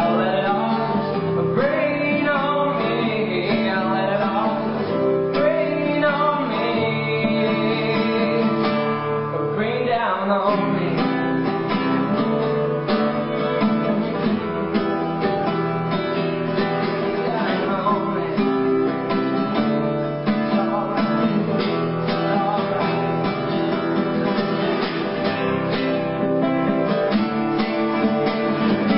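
Music: guitar playing an instrumental passage of a song, with a steady strum underneath.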